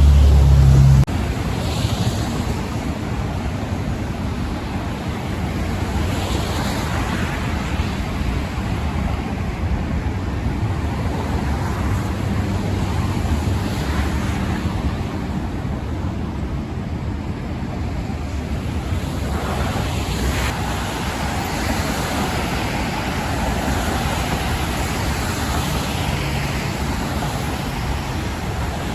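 Steady road traffic noise, with cars passing now and then as swells of tyre hiss. A burst of low wind rumble hits the microphone in the first second.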